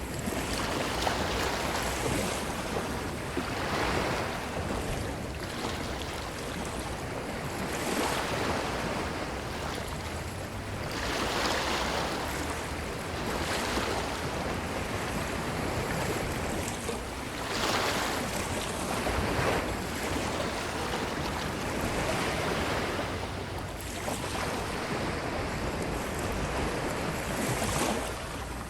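Ocean waves breaking and washing up on a beach: a continuous surf wash that swells every few seconds as each wave comes in.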